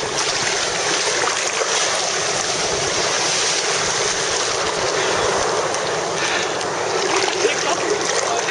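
Steady rush of waves and river water at a river mouth, an even wash of noise with no distinct breaks.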